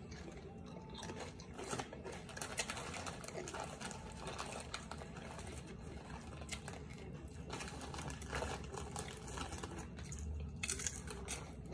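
Crisp crunching of fried chicken-intestine chicharon being chewed, many rapid light crackles and clicks, with fingers rustling pieces out of the plastic snack bag.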